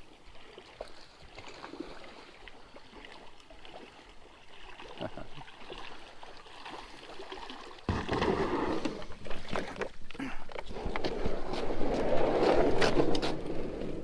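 Water sloshing and splashing around a kayak, faint with small ticks at first, then suddenly much louder about eight seconds in.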